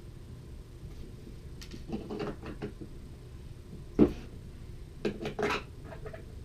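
Skateboard parts and tools being handled: a scatter of short clicks and knocks, with one sharp knock about four seconds in and another quick run of knocks about a second later.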